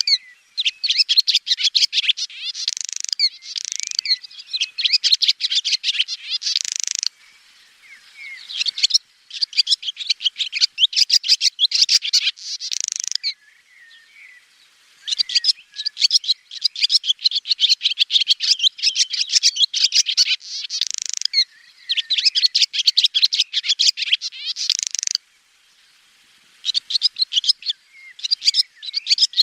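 Swallows twittering: long bouts of rapid, bright chattering chirps and trills, broken now and then by pauses of a second or two.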